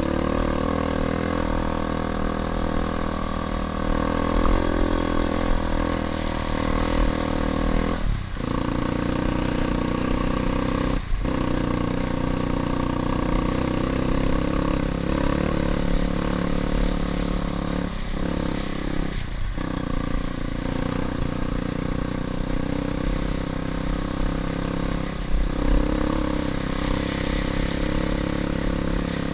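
Dirt bike engine running steadily under way, with the throttle briefly cut several times, as at gear changes.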